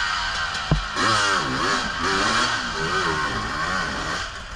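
Dirt bike engine revving up and down repeatedly as the throttle is worked, after a single knock about a second in.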